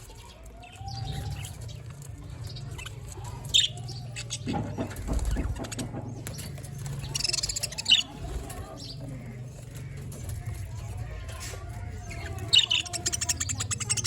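Budgerigars chirping, with a few sharp high calls, a rapid trill near the end and a burst of wing flapping around the middle, over a steady low hum.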